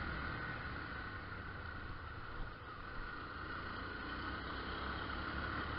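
Motorcycle running at riding speed with steady wind and road noise on the rider's microphone, dipping slightly about halfway through.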